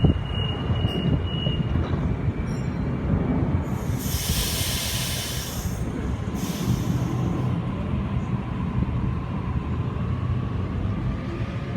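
Electric suburban train at a station platform: a steady rumble with a high squeal that stops about two seconds in, two loud hisses of air around four and six seconds in, and a faint rising whine near the end.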